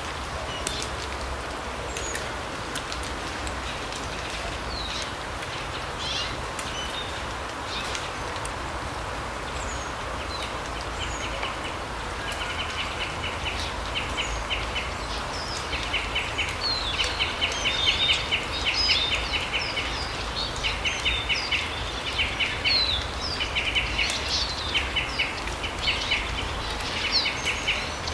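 Small forest birds chirping and trilling, with rapid rattling trills repeated over and over from about ten seconds in. Behind them is a steady rushing forest ambience.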